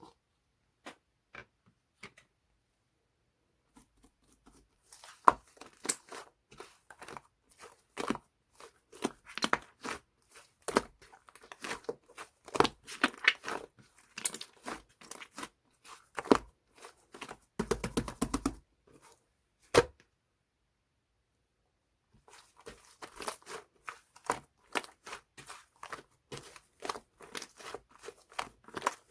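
Slime mixed with angel clay being squished, pressed and stretched by hand, giving dense, irregular crackling pops and clicks. A few scattered pops come first, then steady crackling, a short pause about two-thirds of the way through, and crackling again.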